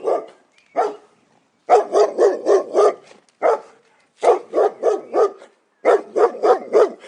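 Dog barking in quick runs of about five barks a second, with short pauses between the runs and a couple of single barks.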